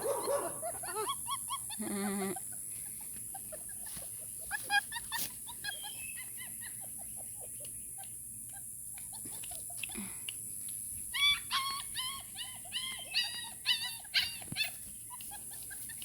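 Young puppies squeaking and whimpering in short, high-pitched cries. The cries come in a few spells: just after the start, around five seconds in, and a quick run of squeaks from about eleven to fifteen seconds.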